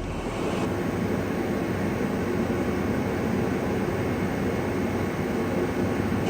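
Steady road and engine noise of a vehicle driving along, an even rushing sound with a low hum underneath.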